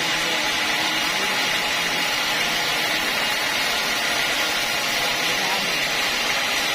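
Sawmill saw running steadily, an even, unchanging machine noise with a strong high hiss.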